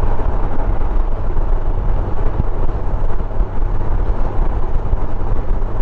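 Steady engine and wind noise of a Honda Gold Wing motorcycle riding along at road speed.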